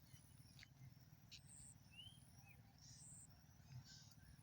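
Faint outdoor birdsong: a few scattered short chirps and quick rising whistles over a low steady background rumble.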